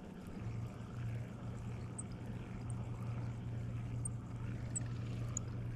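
A motorboat's engine running with a steady low drone that comes in about half a second in.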